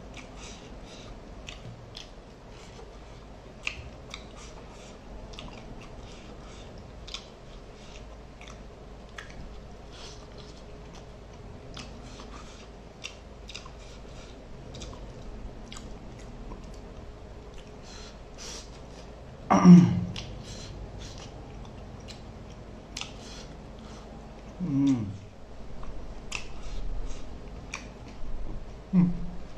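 Close-up chewing of rice and mackerel curry, with many small wet mouth clicks and smacks throughout. A few short pitched sounds from the eater's voice break in, the loudest about two-thirds of the way through and two shorter ones near the end.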